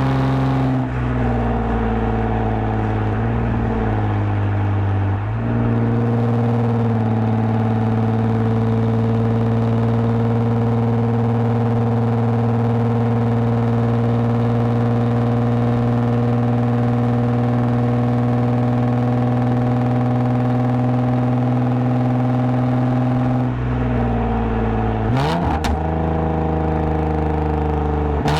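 2010 Lexus IS250 AWD's V6 through a full aftermarket exhaust with valved mufflers, droning at a steady cruising engine speed. The engine note drops at the start, steps up in pitch about five seconds in, and falls again near the end as the car slows, with a few short clicks shortly before the end.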